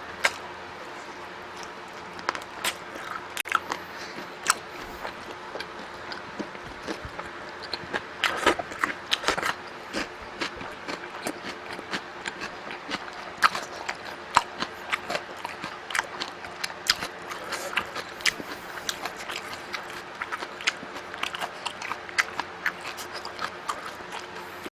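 A person eating close to the microphone: biting and chewing, with irregular sharp clicks and smacks, often several a second.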